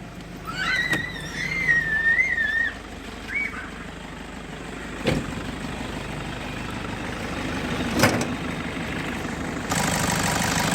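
Toyota Innova engine idling evenly, its injector freshly replaced: the misfiring fault is cured and the beat is steady. A high wavering squeal sounds in the first few seconds, sharp knocks come at about one, five and eight seconds in, and the engine gets louder near the end.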